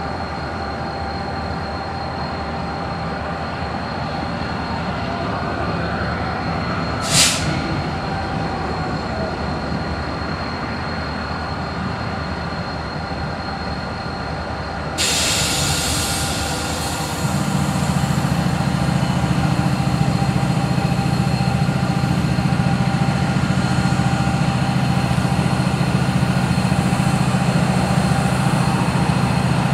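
Diesel freight locomotive approaching slowly with its train: a steady engine drone that grows louder. A brief sharp noise comes about seven seconds in, a hiss joins about halfway, and a deeper, louder engine drone starts just after and holds.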